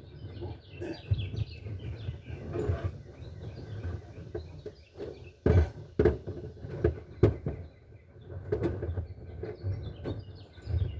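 Irregular knocks and clicks of hand tools and parts on car body metal as bolts are worked out, the sharpest few about halfway through. Birds chirp in the background, mostly near the start and again near the end.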